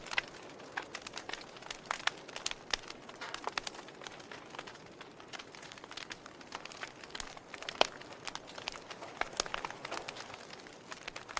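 Fire crackling: irregular sharp pops and snaps of varying loudness over a soft steady hiss, with one louder snap late on.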